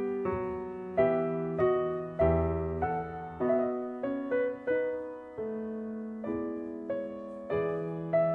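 Background music: slow solo piano, single notes and chords struck one after another, each fading away.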